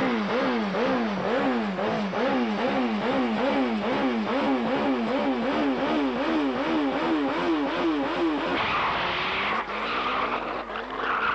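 Turbocharged Kawasaki drag-racing motorcycle engine held on the start line, its revs rising and falling about twice a second. About eight and a half seconds in it launches, and the engine sound changes and pulls away down the strip.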